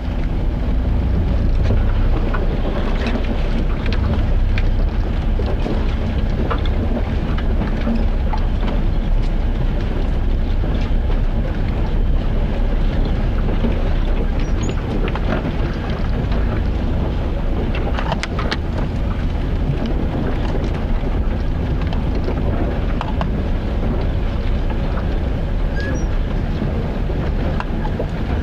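A steady low rumble with scattered light clicks and knocks.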